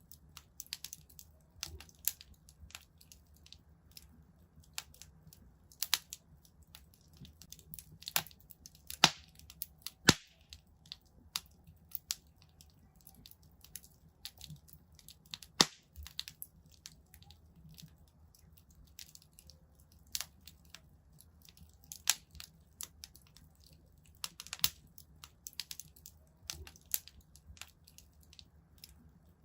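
Wood fire in a fireplace crackling, with irregular sharp pops and snaps, a few louder than the rest, over a faint low rumble.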